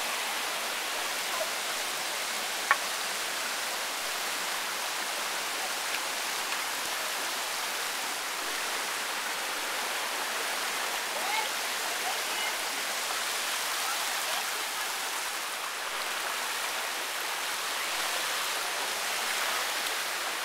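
Steady rush of flowing river water. There is one sharp click about three seconds in.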